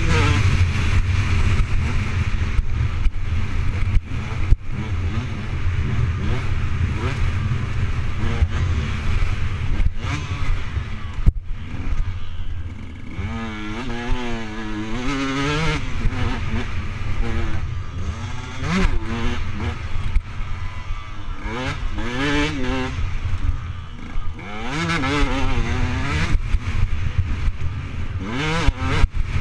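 Motocross bike engine revving up and down again and again, its pitch rising and falling, over a constant heavy rumble of wind on the microphone, with a few sharp knocks.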